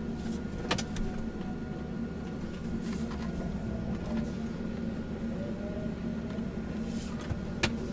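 Truck's diesel engine idling steadily, heard from inside the cab, with a couple of sharp clicks.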